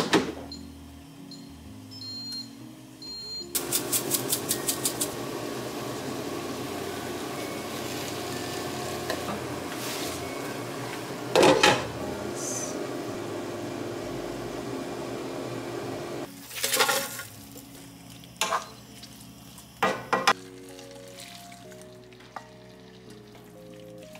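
Bok choy and shiitake mushrooms sizzling as they are stir-fried in a wok, starting with a quick run of clicks. A few sharp knocks come during and after the frying. Near the end the sizzle drops away and soft background music is left.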